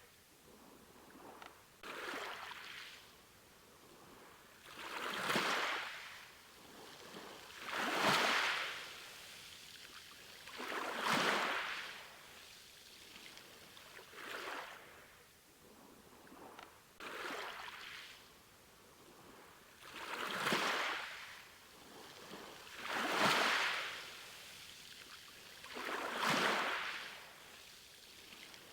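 Small ocean waves washing in and drawing back, one rushing swell about every three seconds.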